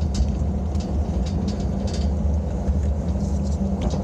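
Steady low rumble of a moving truck's engine and road noise, heard from inside, with scattered light rattles.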